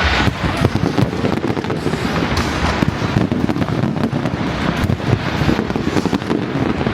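Fireworks display: shells bursting in a dense, continuous barrage of bangs and crackling with no pause.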